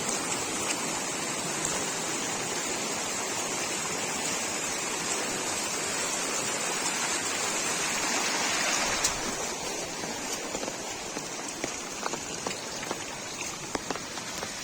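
Heavy rain falling steadily, then thinning about nine seconds in to lighter rain with separate drops ticking.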